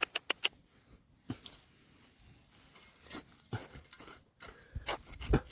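Hard sharp clicks and scrapes of stones and a digging tool being worked through rocky gravel. A quick run of clicks opens it, then scattered taps and scrapes follow, with a few louder knocks and a low thump near the end.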